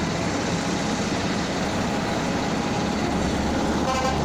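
Diesel multiple unit commuter train running with a steady rumble and hiss. A pitched horn starts to sound near the end.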